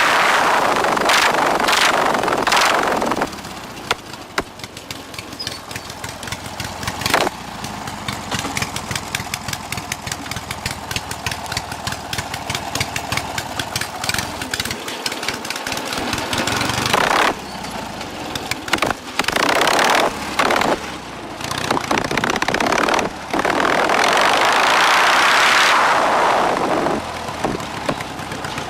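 Lawn mower's small engine revving up and idling in turn: loud revs near the start, again about two-thirds of the way through, and again near the end. In between, a quieter idle with rapid, even firing pulses.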